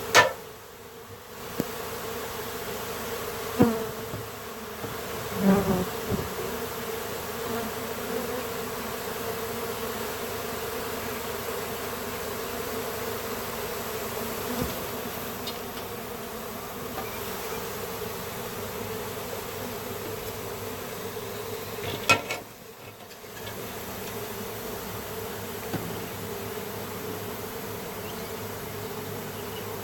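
Swarm of honey bees buzzing in a steady, dense hum. A sharp knock sounds at the very start and another about two-thirds through, with a few lighter knocks in between.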